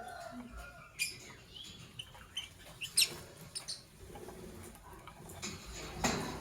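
Lovebirds giving short, sharp, high-pitched chirps and squeaks at irregular moments, the loudest about a second in and about three seconds in. A brief noisy burst comes near the end.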